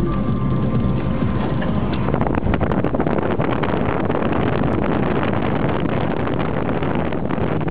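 A vehicle's engine running steadily, heard under heavy wind buffeting the microphone. From about two seconds in, the wind noise grows rougher and crackles.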